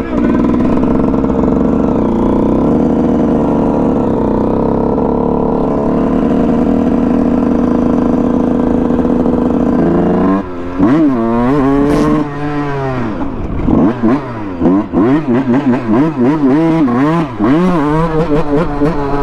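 Dirt bike engine running at a steady pitch for about ten seconds, then revved up and down repeatedly in quick rises and falls.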